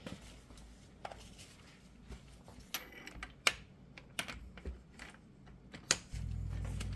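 Scattered light metallic clicks and knocks from tools and parts being handled while a U-joint bearing press is repositioned on an axle yoke. About six seconds in, a steady low hum starts.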